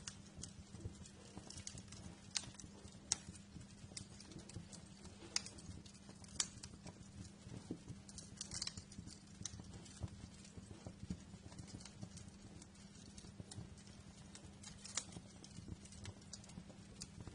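Wood fire crackling, with irregular sharp pops and snaps over a low, steady hiss of burning logs. A few pops are louder, about two, three, five and six seconds in.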